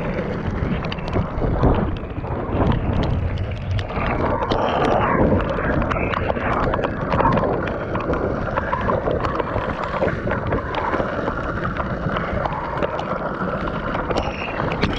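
Longboard wheels rolling over wet pavement, a continuous rushing noise with scattered small clicks, with wind buffeting the microphone.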